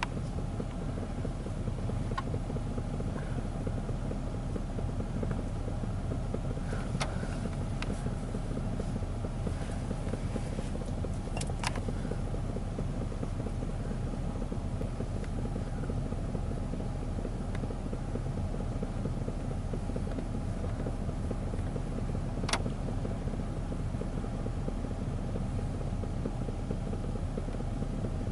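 Car engine idling steadily with a low rumble, with a few brief clicks now and then.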